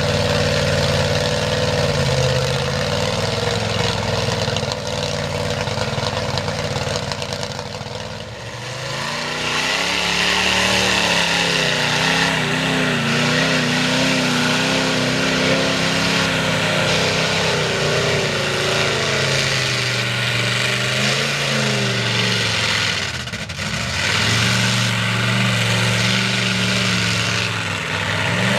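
Mega truck engine revving in a mud bog, its pitch rising and falling. It eases off briefly about eight seconds in and again about 23 seconds in.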